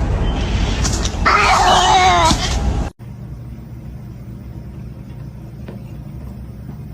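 A cat's drawn-out, wavering meow over a loud rumbling noise, cut off suddenly about three seconds in. A steady low hum follows.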